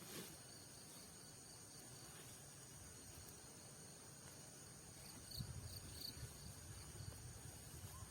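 Night insects, crickets, trilling in a steady high, thin drone, with a few faint chirps. From about five seconds in, a low rumbling noise joins them.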